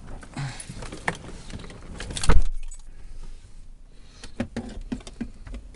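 Keys jangling among clicks and rattles of handling, with one loud thump a little over two seconds in.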